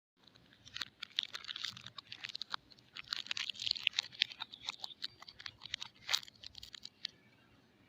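Soap packaging being unwrapped and handled close to the microphone: a dense run of crinkling crackles and sharp clicks that thins out and stops about a second before the end.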